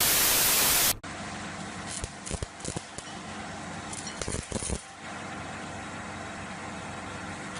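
A loud burst of white-noise static, about a second long, that cuts off sharply, followed by a steady background hiss with a few short knocks.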